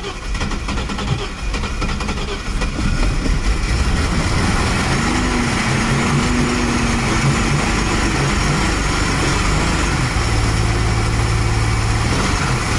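Classic car's carburetted engine, primed with fuel poured down the carburettor, being cranked and catching about three seconds in, then running steadily, heard from inside the cabin. It is the first start after sitting unrun for about seven years.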